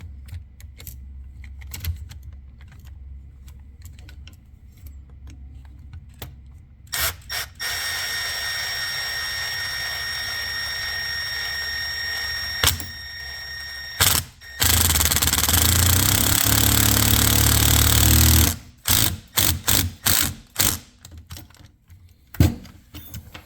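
Power drill running in two bursts on the plastic RC truck suspension parts: a steady run with a high whine for several seconds, then a louder, lower run of a few seconds. Light handling clicks and taps of small parts come before and after.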